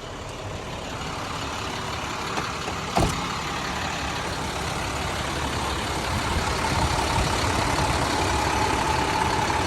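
International WorkStar 7400 diesel truck running while being driven, growing gradually louder, with one sharp knock about three seconds in and a steady whine that comes in past the middle.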